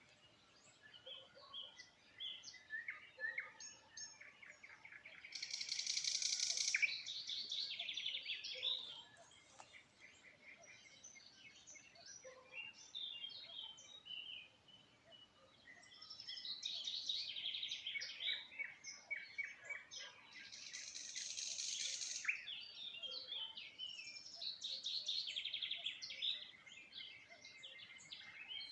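Several songbirds singing and chirping, with many short high chirps throughout. Louder bursts of dense, trilled song come back several times.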